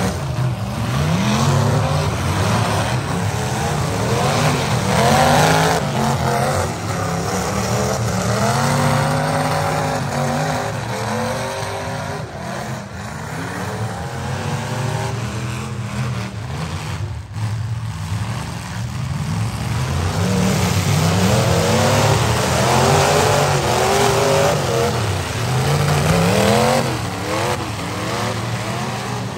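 Several demolition derby cars' engines revving hard and falling back again and again, their pitch sweeping up and down as they accelerate across the dirt arena.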